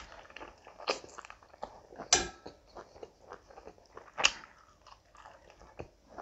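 Close-up chewing and biting of chicken curry and rice eaten by hand, with wet mouth smacks. Sharper, louder bites or smacks come about one, two and four seconds in.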